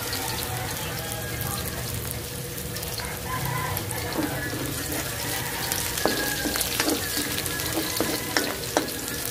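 Onions and garlic sizzling in hot cooking oil in a pan while being stirred. From about four seconds in, the stirring utensil clicks and knocks against the pan several times.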